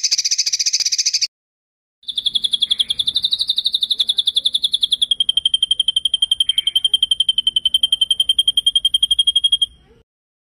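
Recorded songbird song: a short, harsh, buzzy burst, then after a brief gap a long, rapid, rolling trill lasting about eight seconds. The trill drops slightly in pitch about halfway through and cuts off suddenly.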